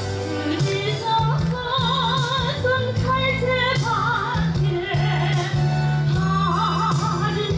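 A woman singing a Korean popular song with a wide, even vibrato on held notes, over music accompaniment with a steady bass line.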